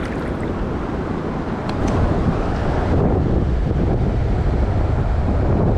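Wind buffeting the microphone: a loud, low rumbling noise that swells about two seconds in.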